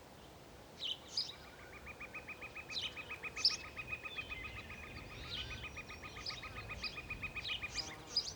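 Birds chirping in short, high repeated calls over a faint outdoor background, with a long, rapid, even trill running through most of it.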